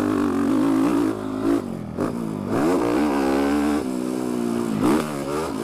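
Dirt bike engine revving as the bike is ridden on a motocross track, heard through a microphone inside the rider's helmet. The pitch repeatedly drops and climbs again with the throttle, about every second or two.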